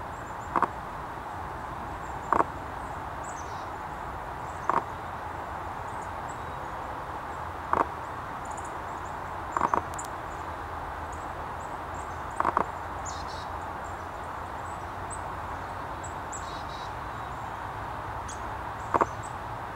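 Outdoor bird sounds: seven short sharp chips at uneven intervals, two of them doubled, over a steady hiss, with faint high twitters in between.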